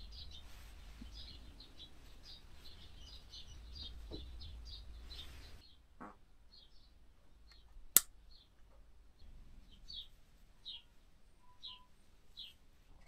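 Small birds chirping over and over in the background, with a low hum that stops a little before halfway through and one sharp click later on.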